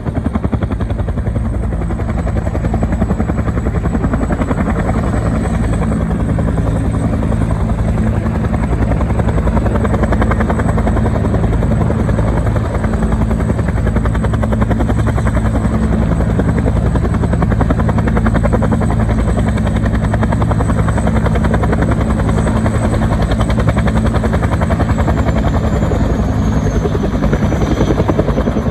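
Military helicopter running loud and steady, its rotor blades chopping rapidly over a deep engine drone. A thin high turbine whine drops a little in pitch near the end.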